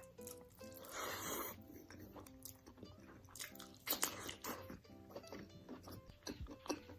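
Close-up eating sounds, bites and chewing with sharp crunches and clicks, over soft background music with steady held notes.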